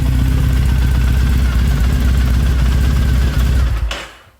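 Triumph Bonneville T100's air-cooled parallel-twin engine, fitted with aftermarket British Customs slip-on exhausts, idling steadily at operating temperature, then switched off near the end, the running cutting off suddenly.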